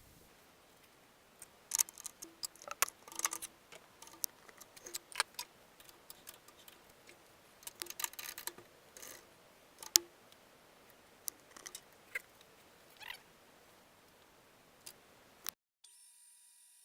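Irregular clicks and knocks of hand work at a metal lathe, with the machine not running. Near the end the sound cuts off suddenly and gives way to a faint steady hum with a thin high whine.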